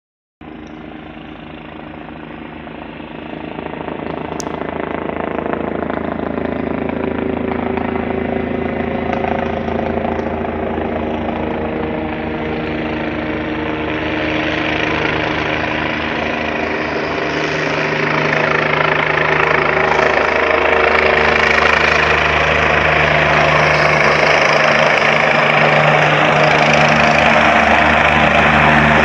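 Helicopter approaching, its steady engine and rotor sound growing gradually louder.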